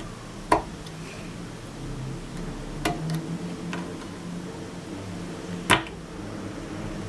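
Small hand tools and eyeglass frame parts being handled on a workbench during hinge-screw fitting: three sharp clicks a couple of seconds apart, with a fainter one between, over a steady low hum.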